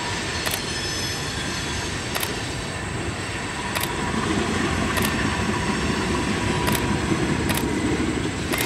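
Diesel freight locomotive approaching slowly, its engine and wheels making a steady rumble that grows a little louder about halfway through. Faint high squealing tones from the wheels fade out early, and sharp clicks come every second or so.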